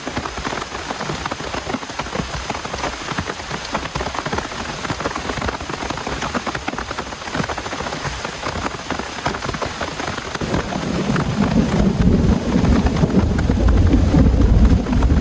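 Heavy rain pattering densely. About ten seconds in, a loud low rumble builds up under the rain and keeps on.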